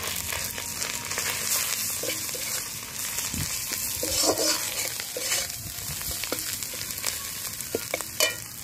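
Onions, garlic and ginger paste sizzling in hot oil in a large metal kadai while a flat metal spatula stirs in turmeric powder, scraping across the pan, with a sharper knock of the spatula near the end.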